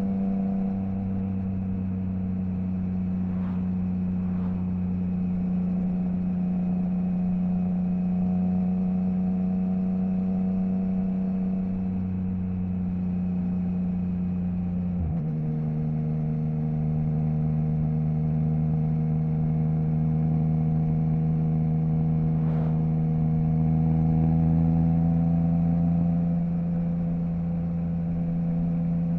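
Triumph Trident 660's inline three-cylinder engine running through a baffle-removed Zard stainless full exhaust, holding steady revs under way. About halfway the note drops suddenly to a lower steady pitch, an upshift, and then rises slightly near the end.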